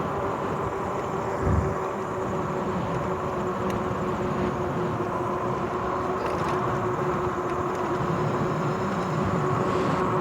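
RadRover 5 e-bike's geared rear hub motor whining steadily under way, over tyre and wind noise. A brief low thump comes about one and a half seconds in.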